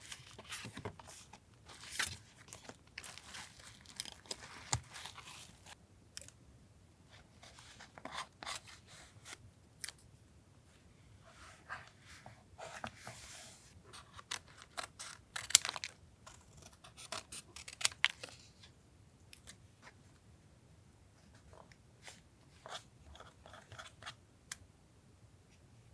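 Paper being handled for a collage journal: crinkling and rustling with sharp snips and clicks at irregular intervals, the loudest click about fifteen seconds in.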